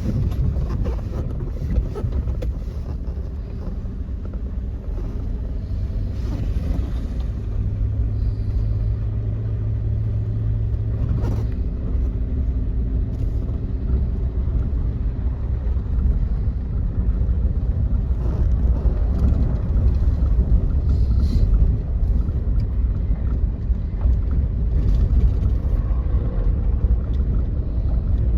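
Steady low rumble, with a low steady hum joining in for a few seconds about eight seconds in.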